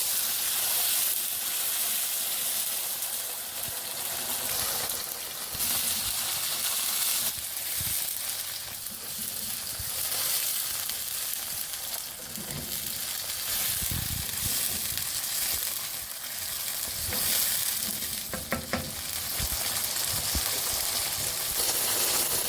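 Fried onions and tinned chopped tomatoes sizzling in hot oil in a pan while they are stirred, with a few soft knocks of the spoon.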